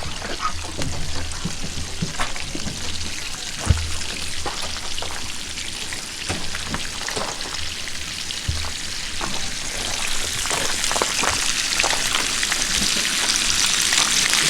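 Food frying in a pan of sausage and bacon grease, a steady crackling sizzle with scattered sharp pops, growing louder near the end.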